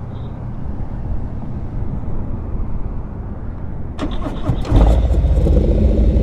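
A steady low rumble, then a Harley-Davidson V-twin motorcycle engine is cranked on its starter about four seconds in. It catches within a second and settles into a loud, deep idle.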